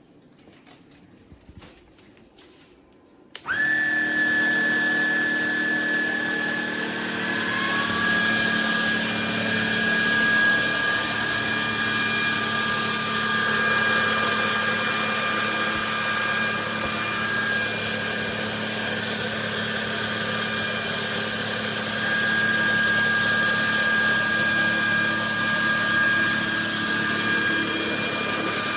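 Trucozie cordless stick vacuum switched on about three seconds in, after a few faint clicks. Its motor starts with a steady whine that climbs in pitch a few seconds later, then runs steadily.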